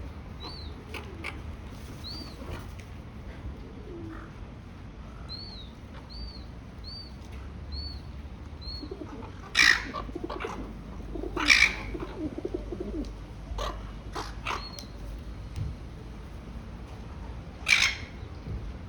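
Feral pigeons feeding, with low wavering cooing about ten seconds in and three loud, sharp noisy bursts among them. A small bird gives a repeated short high chirp through much of it.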